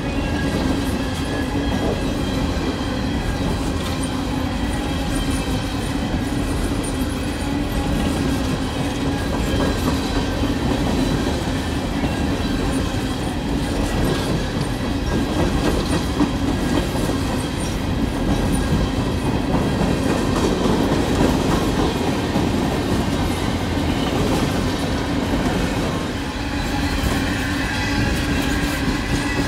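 Freight train of CSX coal hopper cars rolling past at close range: a steady rumble and clatter of steel wheels on the rails, with faint high squealing tones over it.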